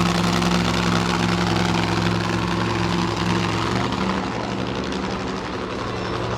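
Monster truck engine idling steadily at an even pitch, the sound easing off a little after the middle.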